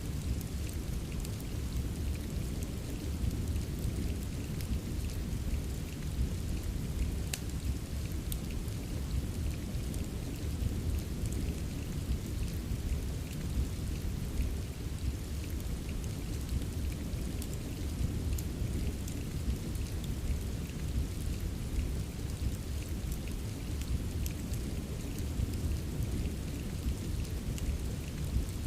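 Steady rain with a deep, even low rumble, dotted with scattered sharp crackles of a wood fire burning in a fireplace.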